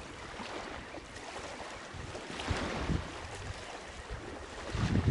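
Wind buffeting the microphone over a steady hiss of open weather, the gusts swelling about two seconds in and growing heavier and rumbling near the end.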